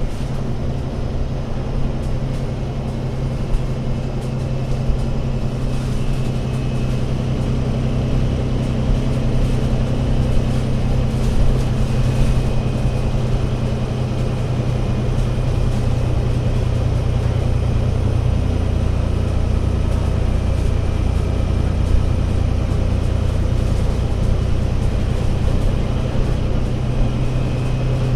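Diesel engine of an ADL Enviro500 MMC Euro 6 double-decker bus running under way with a steady low drone. About two-thirds of the way through the sound deepens.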